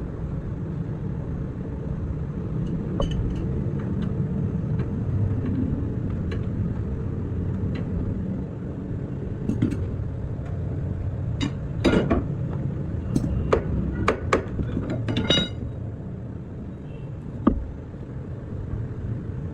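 Workshop noise: a steady low rumble, with a cluster of sharp metallic clinks and knocks in the later half, some of them ringing briefly, and one more knock near the end.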